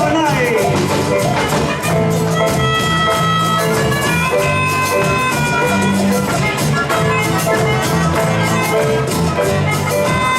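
Live band playing an instrumental passage: held melody notes over a steady beat.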